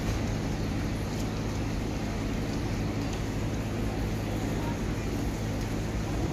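Heavy truck's diesel engine running steadily at a constant low pitch.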